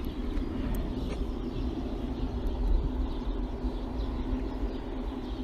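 Outdoor ambience: a steady low rumble with a constant hum, and birds chirping faintly.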